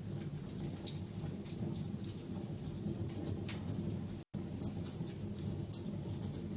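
Wood fire burning, with irregular sharp crackles and pops over a steady low rumble of flames. The sound cuts out completely for a split second about four seconds in.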